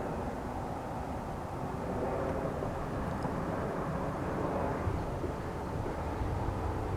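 Steady low drone of a distant engine, with no clear rise or fall.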